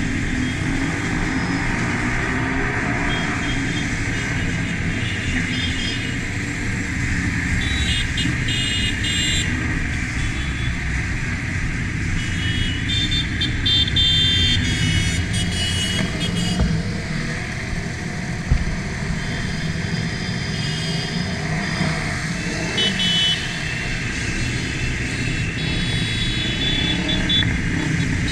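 Motorcycle engines running in a moving convoy, with rising and falling revs and several short horn toots.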